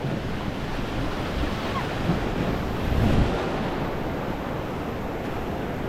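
Rushing whitewater of a river rapid around a raft, with wind buffeting the microphone; the noise swells briefly about three seconds in.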